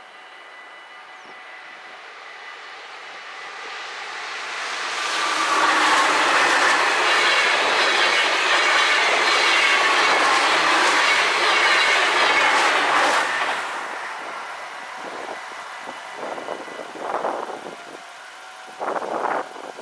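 NS InterCity electric train passing a level crossing at speed. It builds up as it approaches, runs loud for about eight seconds with wheels clicking over the rails, then fades away.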